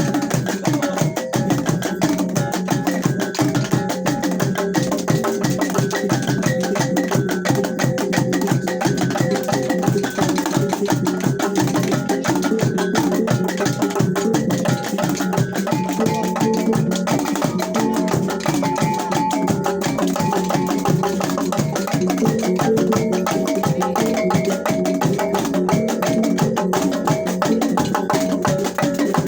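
T'boli traditional ensemble music: a fast, even stream of struck percussion with tuned notes moving between a few fixed pitches.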